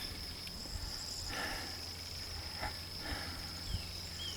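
Steady, high-pitched insect trill, cricket-like, with short high chirps over it and a couple of brief rustles.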